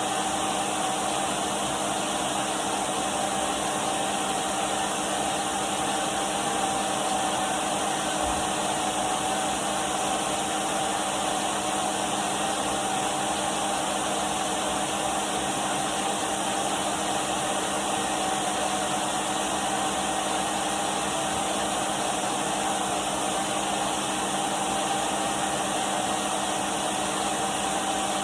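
Henry canister vacuum cleaner running steadily: a constant whoosh of air with a steady motor whine and no change in pitch.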